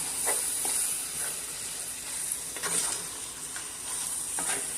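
Cubed beef and onions frying in butter in a pan, a steady sizzle, with a few faint clicks.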